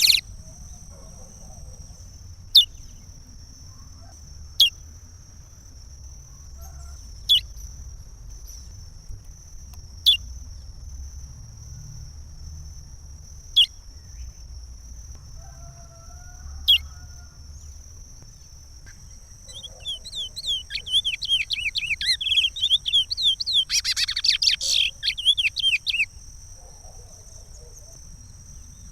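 Curió (chestnut-bellied seed finch) singing: six single sharp downward chirps a few seconds apart, then, about two-thirds of the way in, a fast warbling phrase of repeated notes lasting about six seconds. This is the Pará regional song type used to teach young birds their song.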